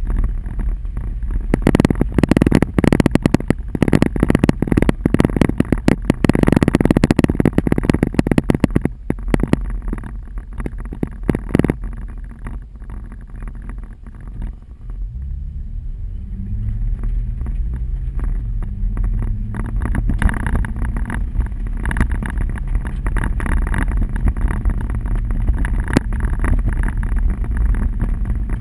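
Hail pelting a car's roof and windshield in a dense clatter, heaviest for the first several seconds and easing off around the middle. The car's engine rises in pitch during the lull, and then the hail picks up again.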